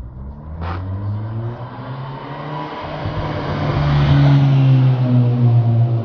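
VW Golf 6 R's turbocharged 2.0-litre four-cylinder running through a stainless turbo-back exhaust with downpipe, 200-cell sport catalytic converter and 76.1 mm piping, pulling under load. It grows louder over the first four seconds, with a brief sharp crack just under a second in.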